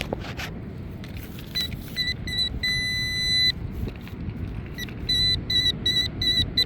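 Nokta Accupoint pinpointer beeping over a buried target: short repeated high beeps that merge into a steady tone for about a second, then quicken again. The solid tone signals the probe is right on the metal. Wind rumbles on the microphone underneath.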